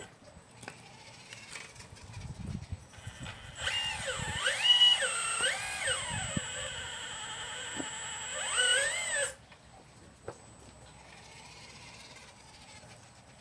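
Motors of a 1/12-scale radio-controlled Liebherr 954 model excavator whining for about five seconds, the pitch rising and falling several times as it works, then cutting off suddenly. A few low knocks come before the whine.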